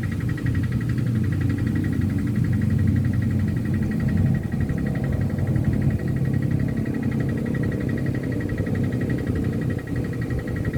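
Strong wind buffeting the microphone, a steady gusty low rumble, with a faint, steady, rapidly pulsing high drone behind it.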